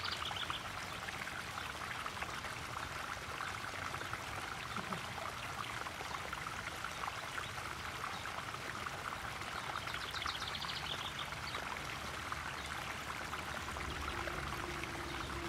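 Koi pond waterfall splashing and trickling steadily. A bird gives a short rapid trill at the start and again about ten seconds in, and a low steady hum comes in near the end.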